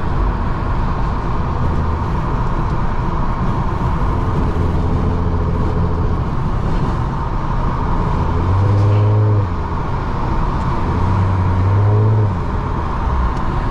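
A car driving at highway speed, heard from inside the cabin: steady engine and road noise. The engine note swells and rises twice, about eight and eleven seconds in, as the car accelerates.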